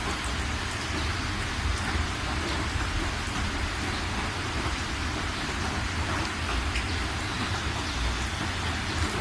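Steady rain falling, with scattered individual drop ticks over an even hiss and a continuous low rumble underneath.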